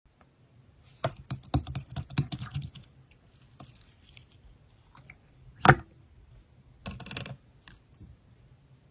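A quick run of small clicks and taps, then one sharp knock about halfway through and a short rustle near the end.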